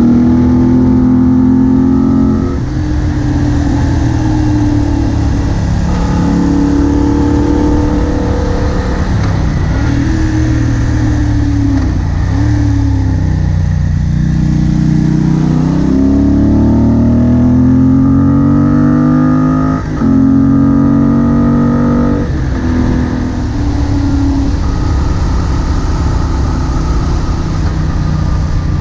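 Moto Guzzi Bellagio's air-cooled transverse V-twin heard from onboard, its pitch rising and falling with the throttle over a steady rush of wind. The engine note drops away about halfway through, then climbs hard under acceleration until a brief dip marks a gear change, and pulls on again.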